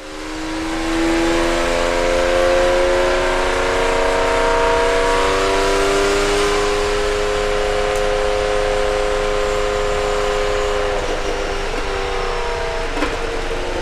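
Nissan X-Trail T31's 2.0 dCi diesel engine pulling under load, its pitch rising slowly and steadily for about ten seconds, then levelling off. A single click comes near the end.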